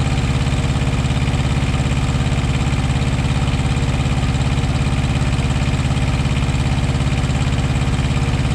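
Semi truck's diesel engine idling steadily close by, with an even, fast pulsing beat. It is running to warm up after coolant work, with air suspected in the cooling system.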